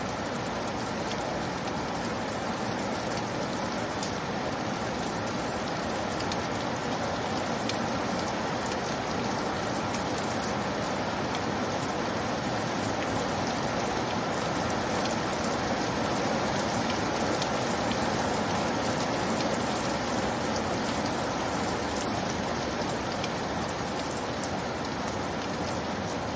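Steady rainfall: a continuous even hiss of rain with faint scattered drop ticks.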